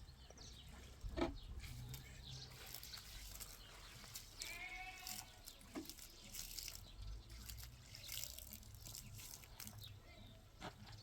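A goat or sheep-type livestock bleat, one pitched call about four and a half seconds in, against faint scattered clicks and knocks, with one sharp knock about a second in.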